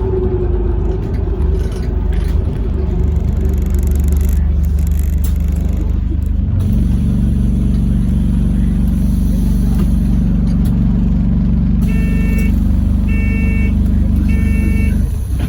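Inside an Alexander Dennis Enviro400 MMC hybrid double-decker bus: a loud, steady low drone from the drivetrain steps up twice, about 4 and 6.5 seconds in, then cuts off near the end. From about 12 seconds in, an electronic beep sounds four times, about once a second.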